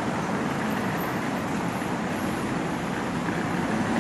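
Steady city street traffic noise: a continuous wash of passing vehicles with no single event standing out.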